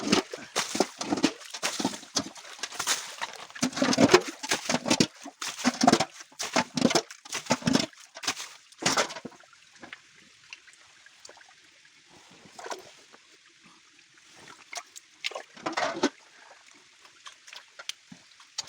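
Shallow stream water splashing and sloshing as it is stirred up, in quick irregular splashes. About nine seconds in the splashing stops, leaving a quieter steady trickle with a few occasional splashes.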